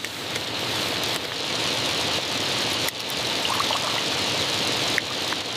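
Steady rushing noise with no clear pitch, holding level throughout, with a few faint clicks in it.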